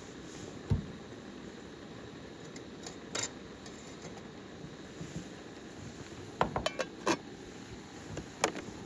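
Several sharp clinks and knocks, a cluster of them about six to seven seconds in, over a steady low rushing noise.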